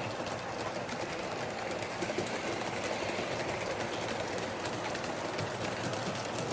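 H0-scale model train running along the track: a steady whirring rattle with many fine clicks.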